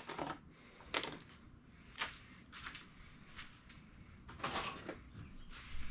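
A few sharp clicks and knocks of metal engine parts and tools being picked up and handled, with a longer scraping rustle about four seconds in.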